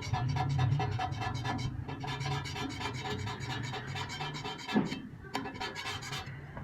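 A cutting tool scraping across a lathe slide being machined: a rhythmic scratching about seven times a second over a steady low machine hum. The scratching thins out about five seconds in.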